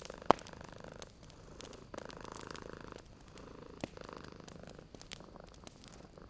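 Cat purring close up in steady swells, about one per breath, over the sharp crackle and pops of a wood fire, with one loud pop about a third of a second in.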